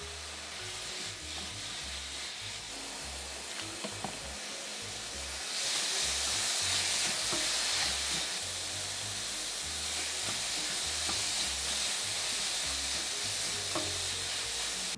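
Kimchi and fish cakes sizzling in a nonstick pan as they are stir-fried and turned with silicone spatulas, with a few light clicks of spatula on pan. The sizzle grows louder about five and a half seconds in, after a dark sauce goes into the hot pan. Background music with a low bass pattern underneath.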